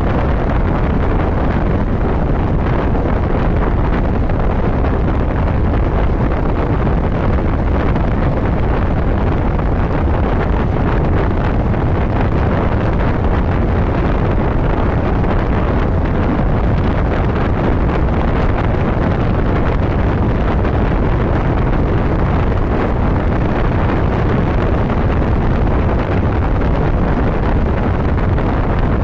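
Steady wind noise rushing over the microphone of a motorcycle riding at road speed, mixed with the bike's running and road noise underneath.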